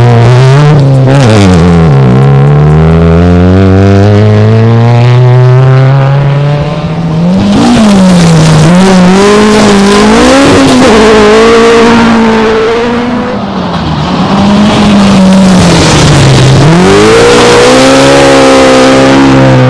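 Rally car engine running hard, its revs climbing steadily and then dropping sharply several times as it shifts gear and lifts off the throttle, with a quick up-and-down surge of revs a little past the middle.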